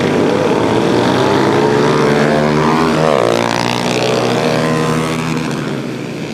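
Several pit bikes running at high revs as they ride past. Their engine notes overlap, and the pitch drops as they go by about three seconds in.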